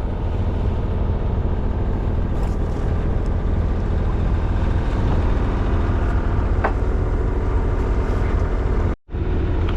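Sailing yacht's engine running steadily under way, a continuous low drone. It drops out for an instant about nine seconds in.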